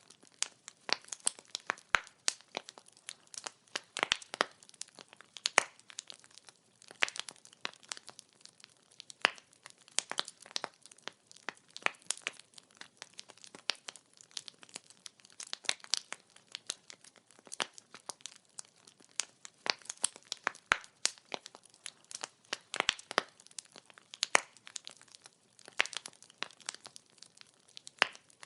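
Wood fire burning, the firewood crackling and popping in irregular, sharp snaps over a faint steady hiss.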